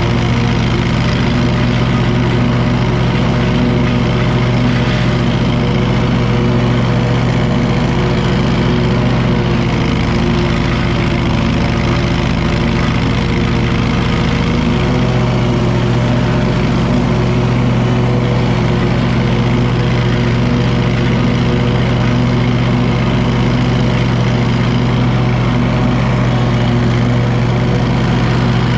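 Wright commercial stand-on mower's engine running at a steady, even speed, with a low hum that weakens briefly about halfway through.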